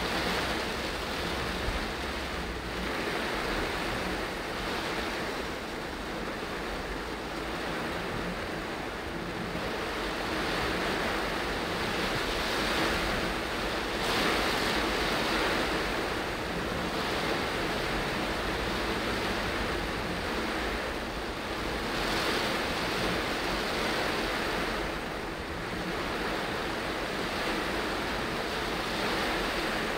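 Heavy rain on a moving car's roof and windscreen, heard from inside the cabin, mixed with tyres on the flooded road: a steady rushing noise that swells and eases now and then.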